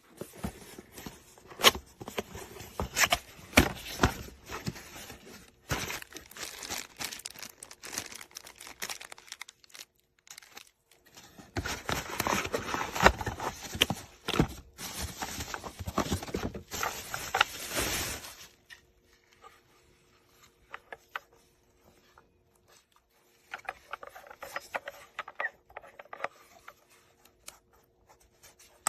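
Handling noise: rustling, crinkling and scraping with many sharp clicks, in two long busy stretches, then quieter with a shorter burst of handling near the end.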